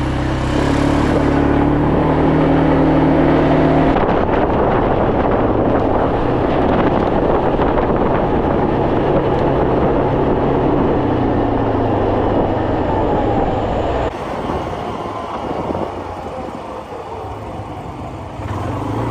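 A motor vehicle's engine running steadily for the first few seconds, giving way to a loud rush of road and wind noise while driving. The sound changes abruptly a few times.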